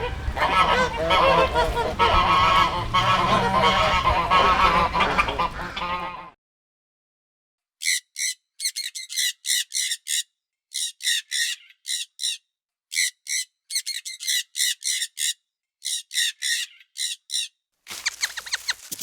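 A flock of birds honking and calling together in a dense, overlapping chorus that cuts off suddenly after about six seconds. After a short gap come many short, sharp, high-pitched chirps in quick pairs and groups, and near the end a brief hiss.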